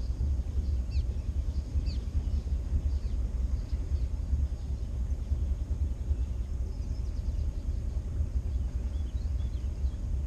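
Steady low rumble of a motorboat underway, with faint bird chirps here and there.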